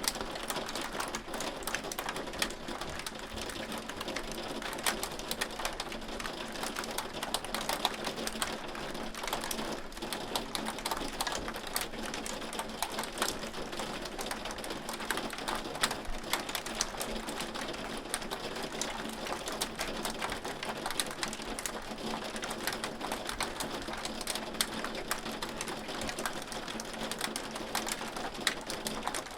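Hail falling on a hard surface: a dense, unbroken patter of sharp ticks and clicks at a steady level.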